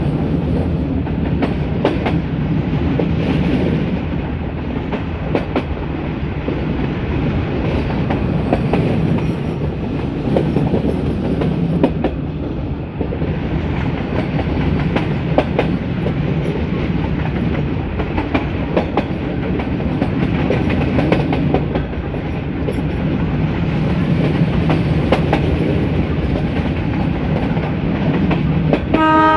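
Metre-gauge passenger train running behind a YDM4 diesel locomotive: a steady rumble from the coaches, with the clickety-clack of the wheels over rail joints. The locomotive's horn starts right at the end.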